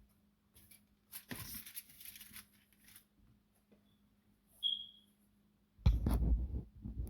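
Salt shaken from a shaker onto food: a couple of seconds of gritty rustling. A short high squeak follows, and near the end comes a loud low thump of something being handled or set down.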